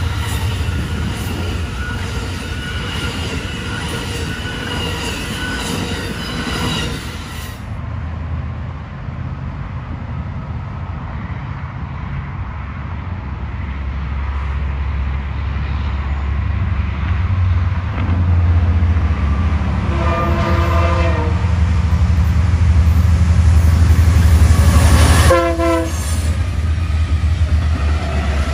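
Diesel train rumbling past, its low engine rumble building toward the end. The locomotive's horn sounds a held chord for about a second and a half about two-thirds of the way through, then gives a shorter blast soon after.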